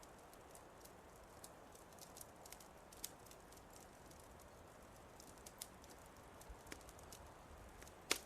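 Faint crackling of a wood fire in a fireplace: scattered sharp pops and snaps over a soft steady hiss, with two louder pops close together near the end.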